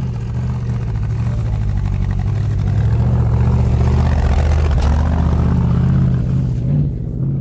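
Jeep's Toyota 1UZ-FE V8 engine working hard under load on a hillclimb. It gets louder about three seconds in and eases off near the end.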